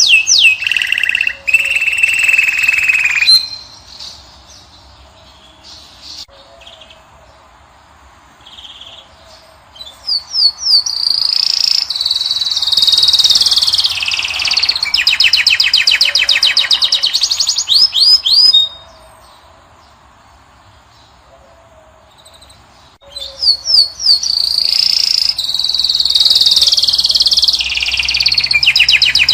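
Caged finch singing: loud phrases of fast, high twittering and rapid trills with quick down-slurred notes, in three bursts separated by pauses of several seconds.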